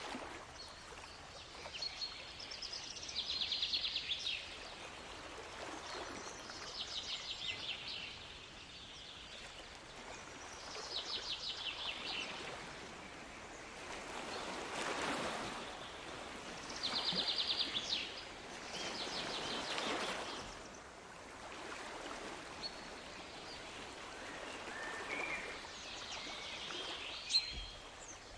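A songbird singing short, rapid trilled phrases every few seconds over a steady wash of water, with waves swelling in twice around the middle.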